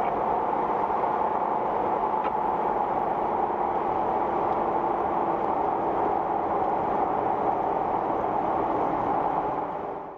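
Steady road and engine noise from a moving vehicle, fading out near the end.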